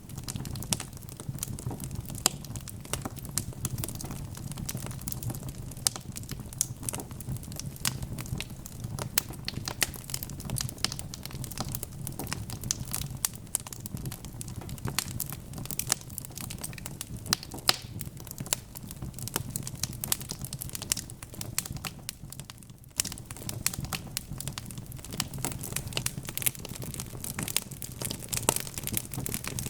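Wood fire crackling, with dense irregular pops and snaps over a steady low rumble of burning. There is a brief lull about three-quarters of the way through.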